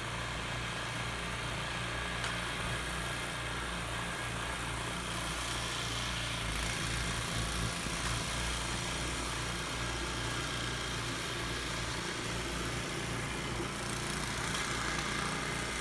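Small engine of a snowblower running steadily at an even speed.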